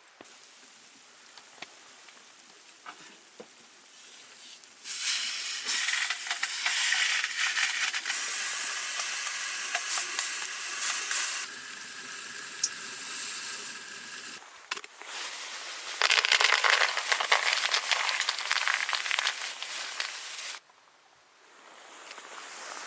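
Loud crackling hiss in two long stretches, the second cutting off suddenly, with a faint clicking quiet before it.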